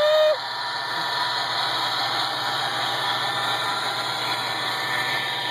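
Model train running steadily on its track: an even rumble and hiss from the locomotive. A short horn-like tone ends just after the start.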